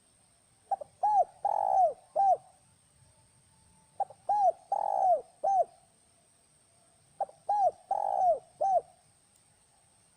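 Spotted dove cooing: three phrases about three seconds apart, each a run of short coos with one longer, louder coo in the middle.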